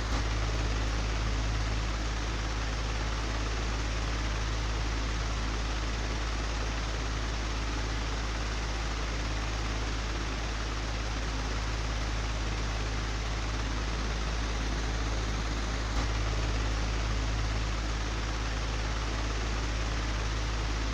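Old, broken electric fan running steadily: an even rush of air noise with a low hum beneath it, and one brief click about sixteen seconds in.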